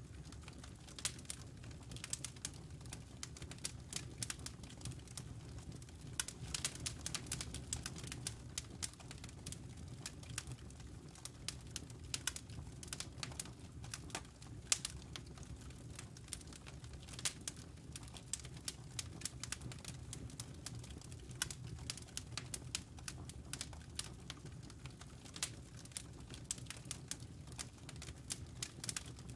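Campfire burning, crackling with irregular sharp pops and snaps over a steady low rumble of the fire.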